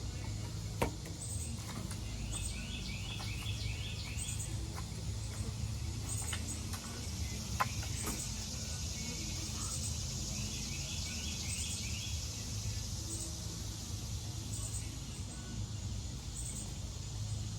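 Evening garden ambience: a steady high insect hiss, with two spells of quick repeated chirping calls, one a few seconds in and one about ten seconds in, over a low background hum.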